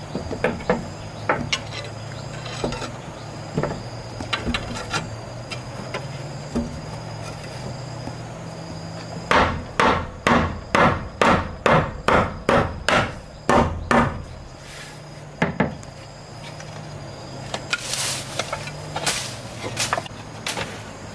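Hammer striking wood: scattered knocks, then a steady run of about a dozen blows at two to three a second about halfway through, then more scattered knocks.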